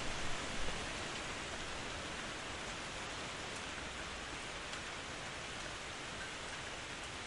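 Steady rain falling, an even hiss. The last of a low thunder rumble dies away in the first second.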